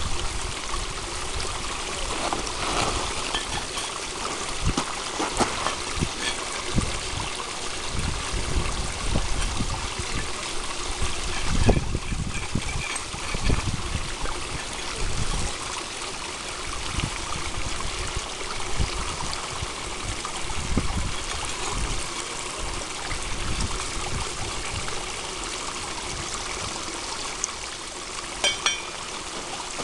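Small stream trickling steadily, with irregular low thuds underneath.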